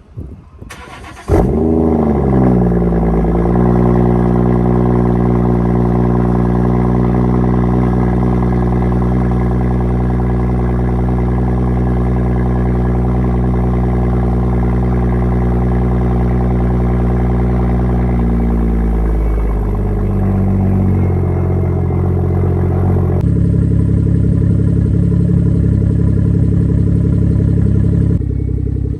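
BMW 340i's turbocharged 3.0-litre straight-six, straight-piped with the muffler and resonators deleted, starting about a second in with a brief flare of revs, then idling steadily. The idle steps a little lower about twenty seconds in.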